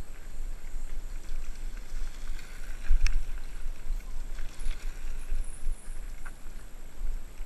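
Mountain bike rattling and jolting down a rough dirt trail: a constant low rumble of bumps and wind buffeting the bike-mounted camera, with scattered sharp knocks from the frame and chain, the sharpest about three seconds in.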